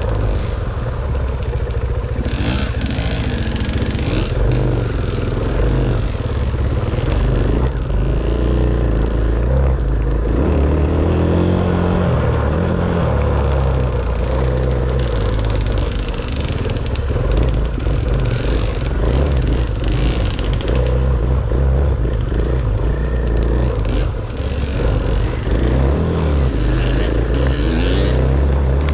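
Dirt bike engine running under way, its revs rising and falling again and again as the throttle is worked, with short bursts of rushing noise over it.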